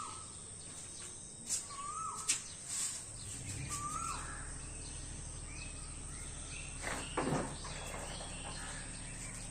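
Birds calling: a short rising-then-falling call repeated three times about two seconds apart, with other higher chirps, over faint outdoor background noise. Two sharp clicks come early, and a brief louder swish about seven seconds in.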